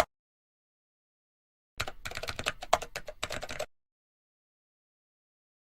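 A rapid, dense run of small clicks, like keys being typed, lasting about two seconds in the middle, with dead silence before and after.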